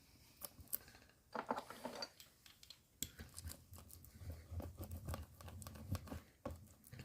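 A puncture-repair patch being pressed and rubbed down onto a rubber inner tube from the centre outward to push out trapped air, with crinkling, a scrape and small clicks from hand handling.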